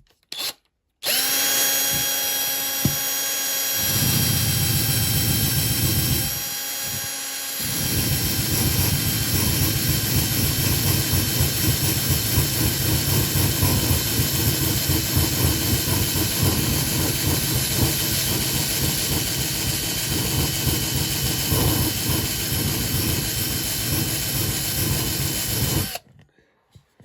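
Electric drill with a wire wheel attachment. After a brief burst it spins up about a second in and then scrubs the die-cast metal car body, a rough scratching over the motor's whine, with one short easing-off early on. It is stripping stubborn paint the caustic soda bath left behind, and stops suddenly near the end.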